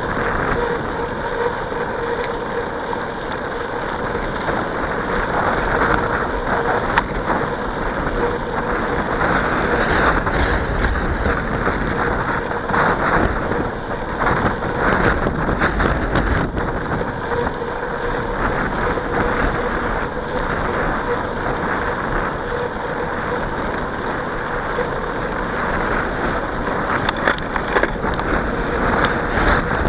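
Steady rushing of wind and tyre noise from a bicycle ride in motion, with a faint steady tone running through it and a few sharp clicks near the end.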